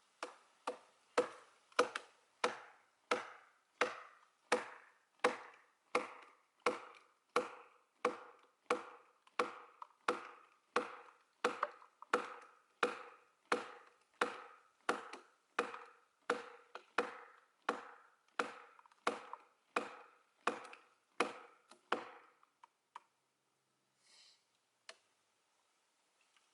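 Steady, evenly paced blows driving a wedge into a split oak log, each strike ringing briefly, at a little under two blows a second. The pounding stops about 22 seconds in.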